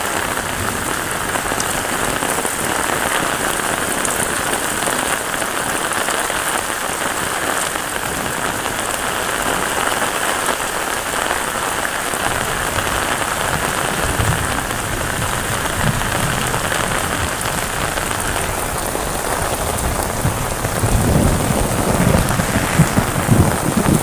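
Heavy rain falling steadily. Near the end, a low rumble of thunder starts and grows louder.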